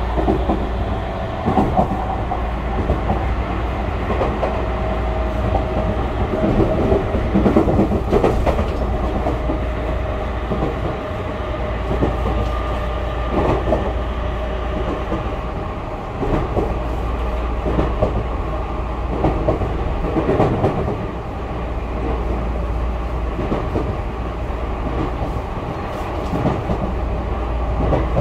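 Tokyu 5000 series electric train heard from inside the car while running: a steady low rumble of wheels on rail, with irregular clacks as the wheels pass over rail joints and a motor hum made of a few held tones.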